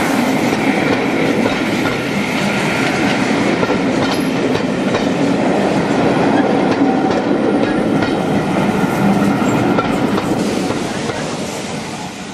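Heritage railway passenger coaches rolling past close by, their wheels clicking over the rail joints in a steady clatter. The noise fades near the end as the last coach goes by.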